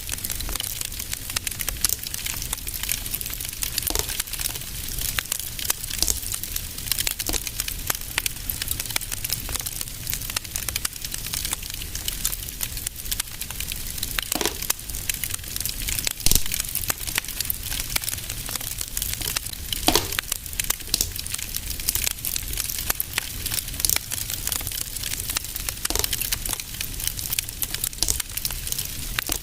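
Fireplace fire crackling: a steady hiss full of small irregular crackles, with a few louder pops scattered through, the sharpest about 16 and 20 seconds in.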